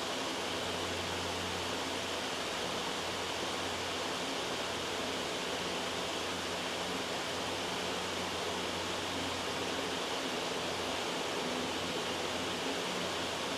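Steady loud white noise, an even hiss that does not change.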